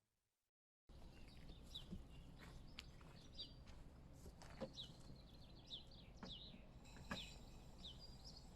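Faint birdsong: many short, quick chirps repeated over several seconds above a low background rumble, with a few faint knocks. It begins about a second in, after a moment of dead silence.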